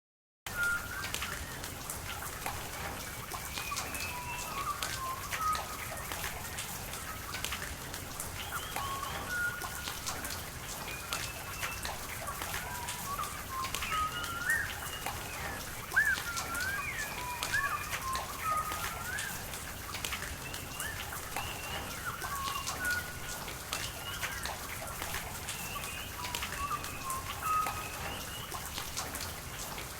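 Rain falling with a steady hiss and many scattered drips, with small birds chirping and warbling throughout. The sound cuts in after a half-second gap at the start.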